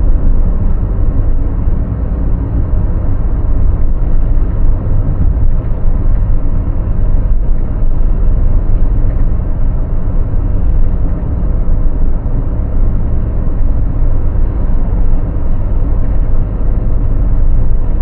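Steady low rumble of a car driving, engine and road noise with no distinct events.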